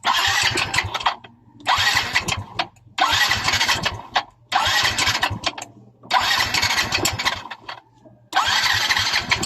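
Yamaha Mio i 125 scooter's electric starter cranking the engine in six short bursts of about a second each, going quiet between tries, the engine not keeping running.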